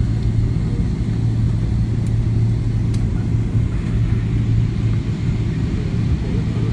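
Steady low cabin rumble inside a Boeing 777-300ER, the drone of its GE90 engines and the airframe, even in level with a strong low hum.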